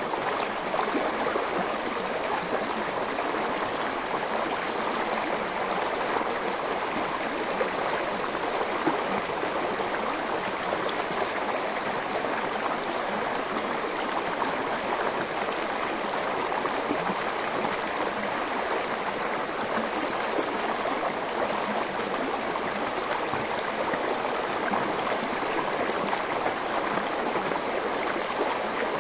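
Gentle forest stream flowing: a steady, unbroken rush of running water.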